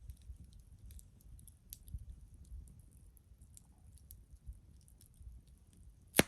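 Wood campfire crackling with scattered small snaps, and one loud pop near the end.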